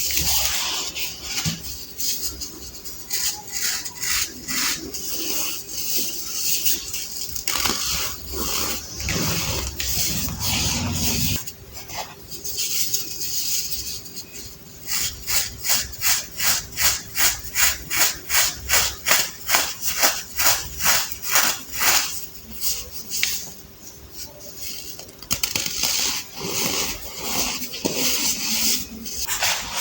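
Baked baking soda being crushed and crumbled by hand, with dry crunching and squeaky crumbling. About halfway through comes a run of quick, even crunches, about three a second, for several seconds, before it goes back to irregular crumbling.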